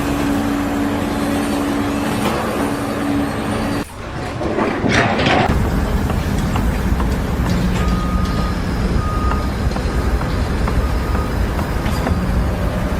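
A heavy engine running steadily. About four seconds in the sound cuts out abruptly and a short rush of noise follows. After that a lower engine rumble carries on, with a few short, high beeps.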